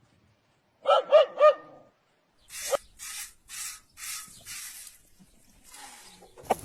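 A dog barking three times in quick succession, followed by a run of short breathy, hissing bursts at about two a second.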